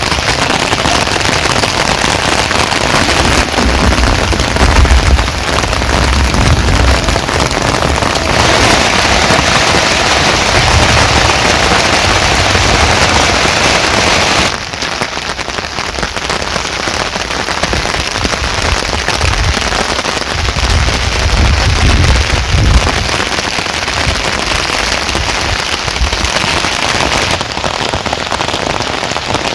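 Heavy rain pouring down: a loud, dense hiss with a crackling patter of drops. Its character changes abruptly several times, about 8, 14 and 27 seconds in.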